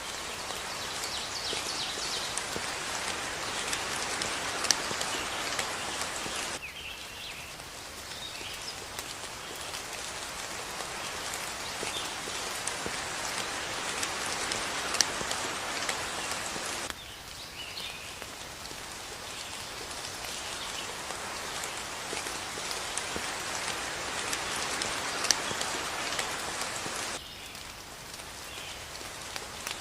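Steady rain falling, swelling and then dropping abruptly to a lighter patter about every ten seconds, with a sharp single drip three times and faint bird chirps under it.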